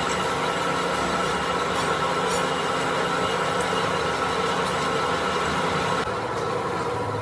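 Workshop metalworking machine running steadily with a hum of several steady tones and a few light ticks; its higher hiss falls away about six seconds in.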